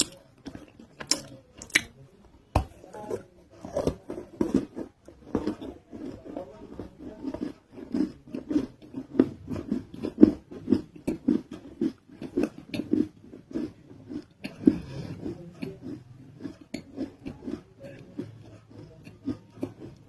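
Close-miked biting and chewing of a roll of raw, unroasted nakumatt clay: a few sharp crunches in the first few seconds, then steady, rhythmic chewing.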